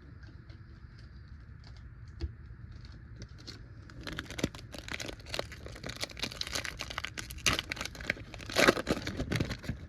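A foil trading-card pack wrapper being torn open and crinkled in the hands, starting about four seconds in after a few faint handling clicks.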